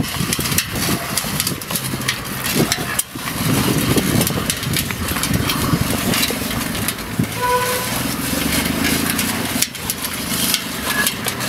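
Car engines running, a steady rumble with its pitch shifting now and then.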